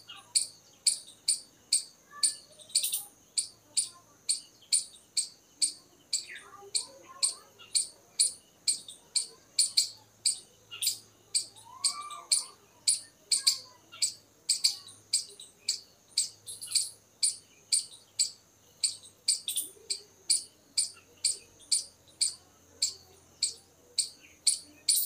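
Squirrel calling in a long run of short, sharp, high-pitched chirps, evenly spaced at about two a second.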